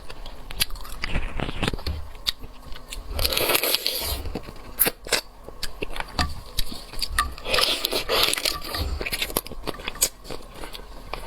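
Close-miked eating of seafood: biting and crunching with many sharp clicks, and two longer noisy stretches, about three and about seven and a half seconds in.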